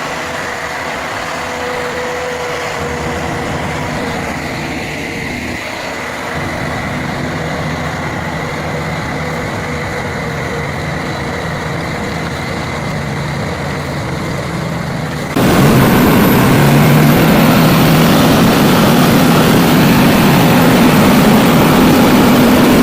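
Heavy vehicle engine running steadily. About 15 seconds in, the sound jumps abruptly to a louder, harsher engine.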